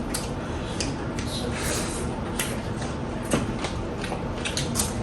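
Eating sounds: a person chewing, with irregular sharp wet clicks and smacks of the mouth.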